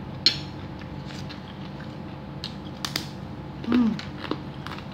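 Close-up eating sounds: chewing and mouth smacks on a mouthful of chicken soto noodles, with a few sharp clicks scattered through. A short hummed 'mm' comes near the end.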